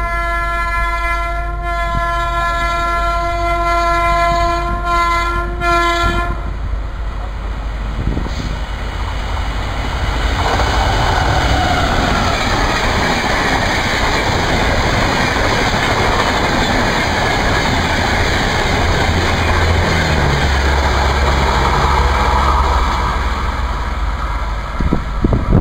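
WAP-5 electric locomotive horn sounding one long, steady blast that cuts off about six seconds in. The Shatabdi Express then rushes past at speed, its locomotive and coaches making a loud roar of wheels on rail that swells about ten seconds in.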